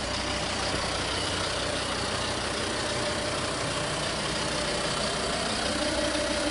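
Diesel engine of a Volvo XC70 idling steadily.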